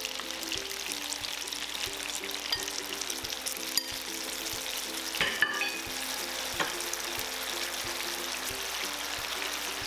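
Chicken wings sizzling in a frying pan in a freshly added sauce of soy sauce, rice vinegar, rice wine, maple syrup and garlic: a steady crackling sizzle with a few sharp clicks. A soft background melody plays under it.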